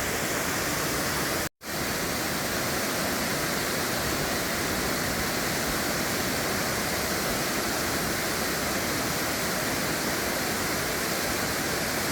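Waterfall rushing steadily, the falls running full after days of heavy rain. The sound drops out completely for a split second about one and a half seconds in.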